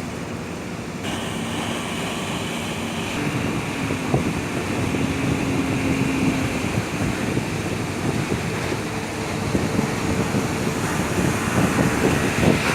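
Motorboat running on a river, its engine under a rush of water and wind buffeting the microphone, growing louder about a second in.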